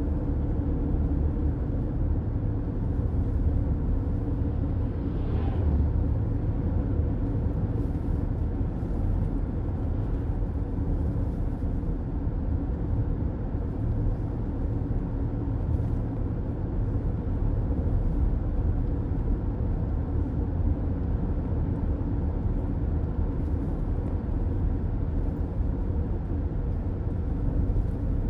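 Steady road noise of a car driving at speed, heard from inside the cabin: a constant low rumble of tyres and engine.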